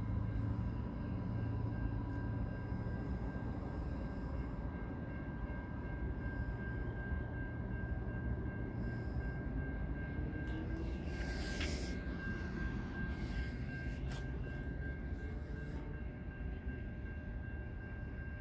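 A train approaching from a distance: a low, steady rumble.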